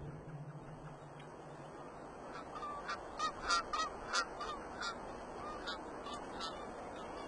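A bird giving a quick run of short calls, about eight in two and a half seconds starting a little over two seconds in, then a few more spaced out, over a steady background hiss.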